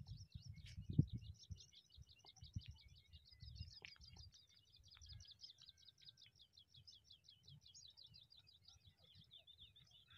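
Faint, fast chirping of a small bird, high-pitched notes repeated about seven times a second without a break. Low wind rumble and handling bumps on the microphone underneath, with a thump about a second in.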